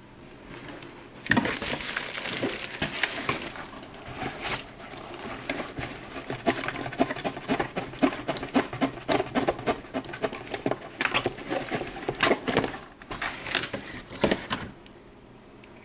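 Packaging being handled while metal detector parts are unpacked: irregular rustling and crinkling with many small clicks and knocks, which stops about a second before the end.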